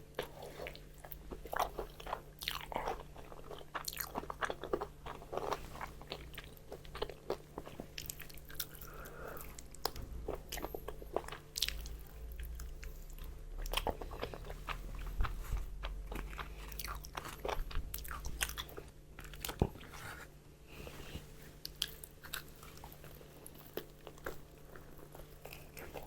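Close-miked chewing of crispy fried chicken: rapid irregular crunching and crackling of the fried coating, with sharp crunches scattered throughout.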